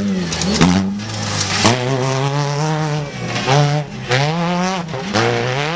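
Off-road race vehicle engine revving hard, its pitch climbing and dropping several times in a row as the throttle is worked and released.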